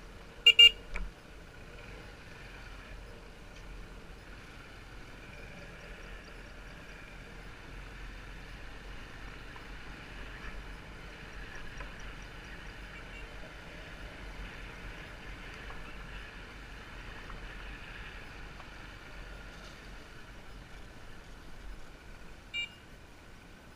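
Motorbike riding along a road, a steady engine and road sound. A horn toots briefly, loudest about half a second in, and again shortly before the end.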